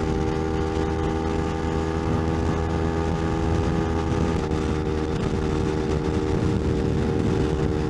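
Kawasaki Ninja 250's parallel-twin engine running steadily at highway speed, heard through the rider's helmet mic over wind and road rush. Its note shifts slightly about four and a half seconds in.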